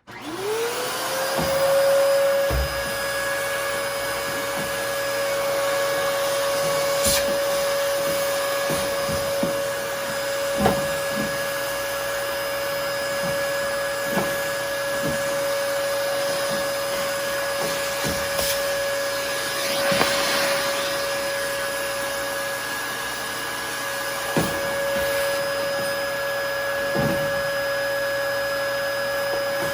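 Vacuum cleaner fitted with a flexible dryer-vent lint-cleaner attachment switching on and spinning up to a steady whine within about a second and a half, then running and sucking lint, with scattered knocks and clicks throughout.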